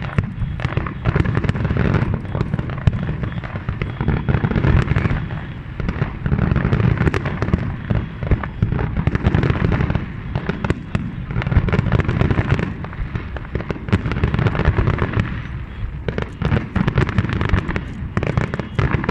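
A large fireworks display: many shells bursting in quick succession, a continuous run of booms and crackling over a heavy low rumble.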